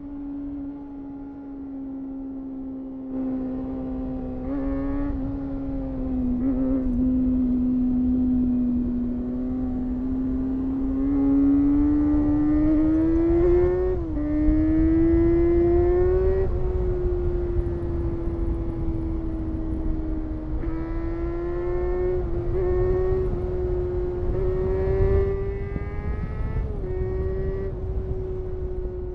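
Honda CBR250RR (MC22) 250 cc inline-four engine running at high revs under way. Its note is held high and steady, climbing gradually and dropping briefly a few times, around the middle and again near the end.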